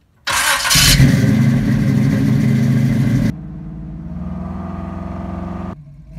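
A vehicle engine starting with a sudden burst, then running steadily. Just after three seconds it drops abruptly to a quieter, steady run, then cuts off shortly before the end.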